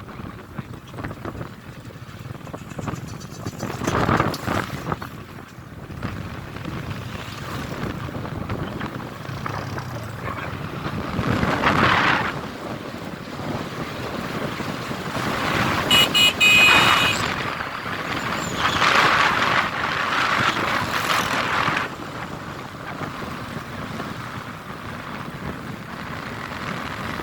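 A vehicle on the move, its running and road noise mixed with heavy wind buffeting the microphone in gusts that swell and fade. A short high tone sounds about halfway through.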